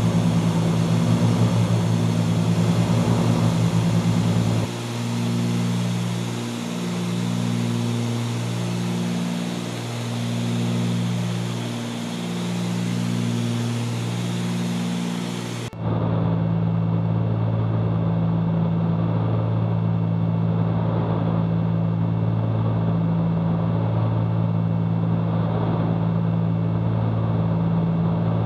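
Cabin drone of the twin-engine Cessna 310Q's two piston engines and propellers in the climb. From about five seconds in to about sixteen seconds the drone swells and fades in a slow beat, roughly once every two seconds, the wah-wah of two propellers turning at slightly different speeds. It then cuts abruptly to a steady, even drone.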